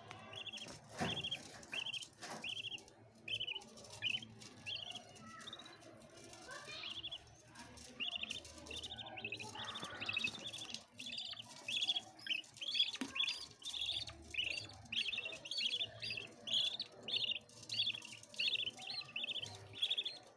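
Budgies chirping: a steady run of short, high chirps, a couple a second at first and coming faster and louder in the second half.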